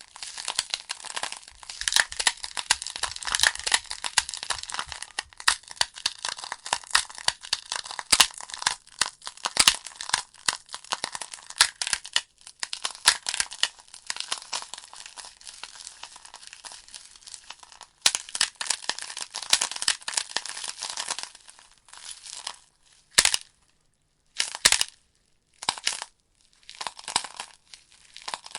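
Logs burning in a fireplace, crackling and popping with many sharp snaps over a soft hiss. The crackling thins out about two-thirds of the way through into scattered pops with short silent gaps.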